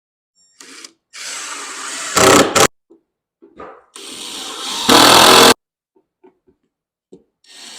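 Power drill driving two screws into wood, each run lasting about a second and a half and getting louder toward its end as the screw goes in.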